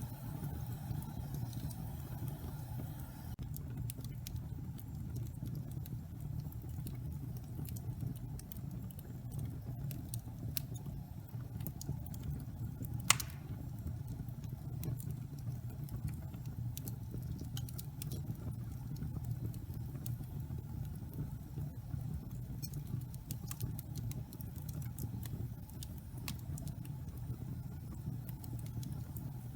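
Wood fire burning in a fireplace: a steady low rumble of flames with scattered sharp crackles from the burning logs, and one loud pop about halfway through.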